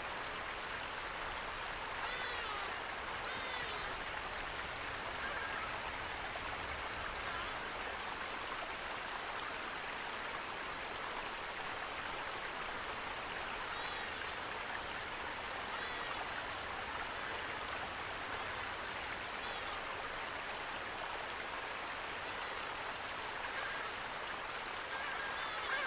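Steady rush of flowing water from a stream or waterfall, with a few faint bird chirps now and then.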